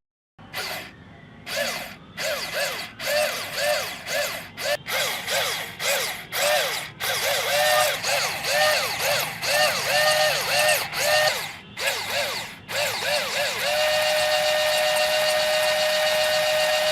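Small electric motor whining in short bursts, its pitch rising and falling with each burst, a couple of times a second. About three-quarters of the way through it settles into a steady whine.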